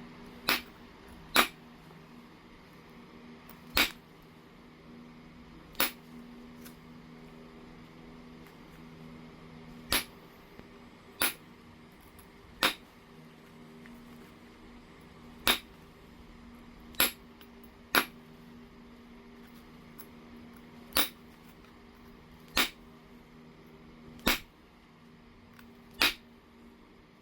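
Flakes coming off a piece of low-grade heat-treated Oregon jasper as it is knapped: sharp, separate clicks at irregular intervals, about fourteen in all, with gaps of one to four seconds between them.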